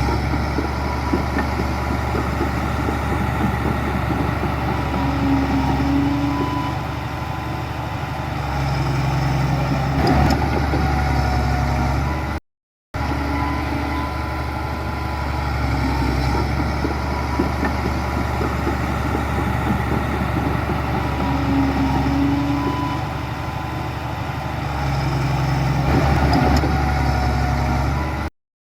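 Heavy diesel engine of earthmoving machinery running steadily, swelling and easing every few seconds as it takes load. There are a couple of brief knocks, and the sound cuts out for a moment twice.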